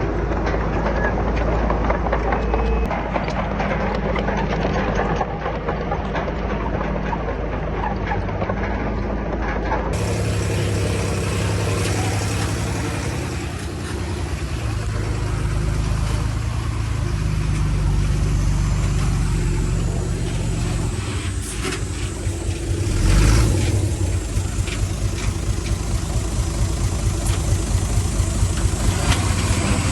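Heavy diesel engines of earthmoving machinery, a bulldozer and dump truck, running steadily. About ten seconds in the recording changes to another take. There is a brief louder surge a little past the middle, and an engine revs up near the end.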